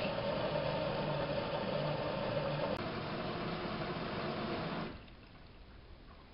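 Water rushing through a Samsung WF71284 washing machine under a faint steady hum. It starts suddenly, runs about five seconds and cuts off abruptly.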